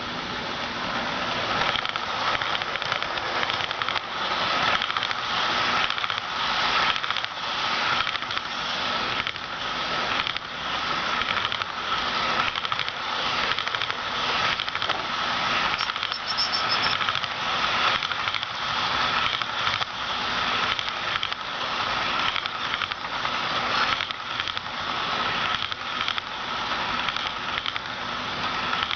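HO-scale model intermodal train running on its track: a steady rattling clatter of wheels on rail, with a steady tone under it. It grows louder about a second in.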